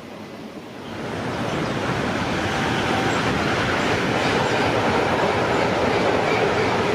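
A train running past on the line, growing louder about a second in and then staying loud and steady with the noise of wheels on rails.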